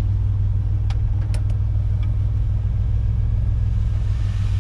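Vortec V6 engine of an OBS pickup running with a steady low hum, on its first run after a fuel system overhaul with a new fuel pump and spider injection. A few light clicks come about a second in.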